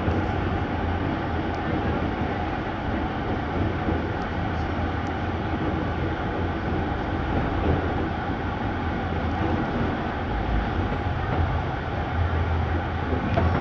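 Passenger train running, heard from on board: a steady low rumble with rattling noise and no distinct clacks.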